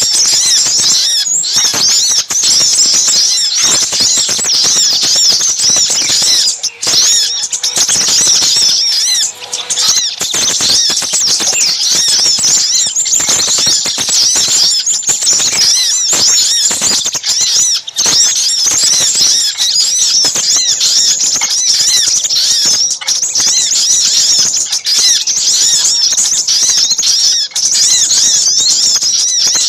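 Small birds calling nonstop in a dense, high-pitched chatter of fast overlapping chirps and trills. This is a bird-lure recording that layers the busy calls of a little spiderhunter ('sogok ontong') with those of a crimson sunbird ('sepah raja').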